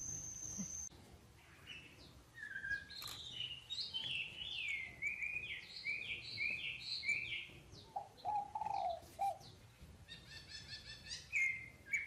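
Small bird chirping: a run of falling chirps, about two a second, then a lower call and a quick rattle of notes near the end.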